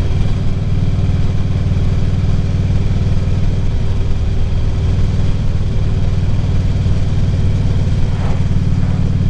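Harley-Davidson touring motorcycle's V-twin engine running steadily under way, with road and wind noise on the helmet microphone.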